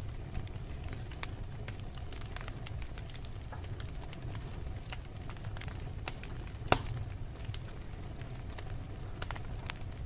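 Logs burning in a fireplace: a steady low rumble of flames with scattered crackles and one loud pop about two-thirds of the way through.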